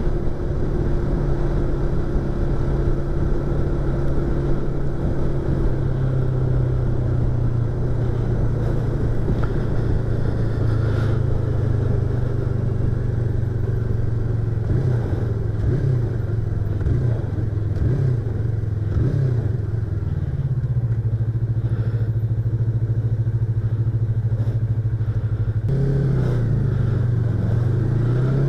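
Yamaha YZF-R25's parallel-twin engine and exhaust heard from inside the rider's helmet, running at steady revs with small throttle changes. Near the end the pitch dips and then climbs again.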